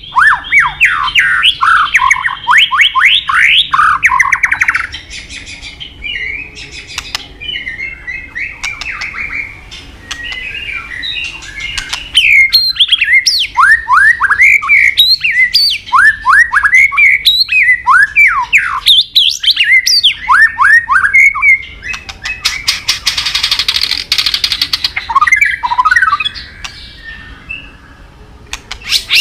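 White-rumped shama (murai batu) singing loudly and continuously: fast runs of sweeping, whistled notes in a varied song full of imitated phrases, with a harsh buzzing rattle a little over 20 seconds in.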